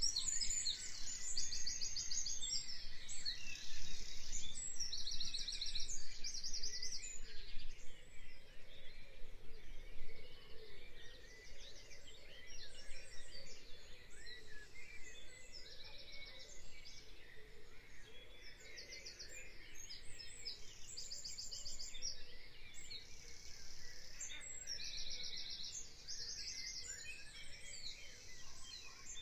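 Songbirds singing: short, high, rapidly trilled phrases repeating every second or two over a steady background hiss, louder in the first third.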